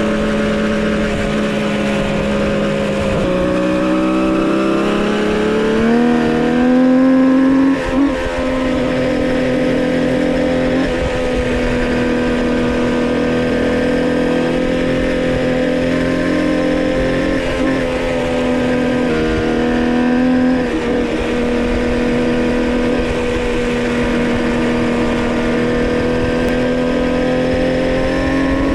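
Homemade three-cylinder two-stroke motorcycle engine running under way at steady cruising speed during break-in. The engine note drops about three seconds in, climbs again around six seconds, then holds steady.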